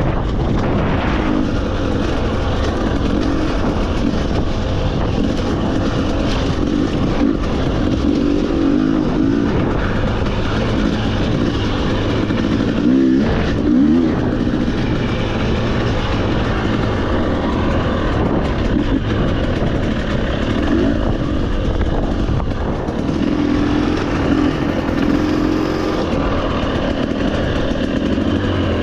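Motorcycle engine running on an off-road trail ride, its pitch rising and falling with the throttle, including a quick up-and-down swing about halfway through, over a steady rushing noise.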